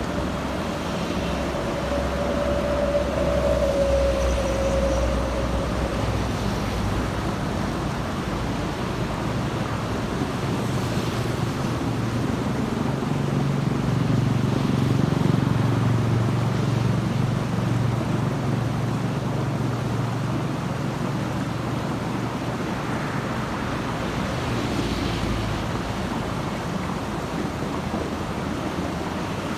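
Steady road traffic with heavy vehicles, buses and trucks, passing. A whine falls in pitch over the first few seconds, and a deep engine drone of a heavy vehicle builds and is loudest about halfway through before fading.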